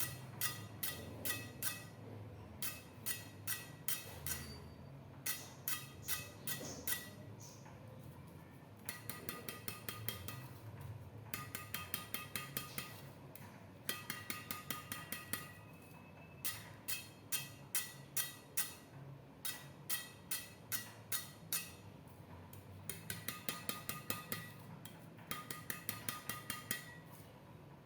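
Tightly strung badminton racket string bed (Toalson ION 65 string at 26.5 lbs) struck again and again, each hit giving a short, high, pinging ring. The hits come in quick runs of several a second, broken by short pauses; the crisp ping shows a tight, freshly strung string bed.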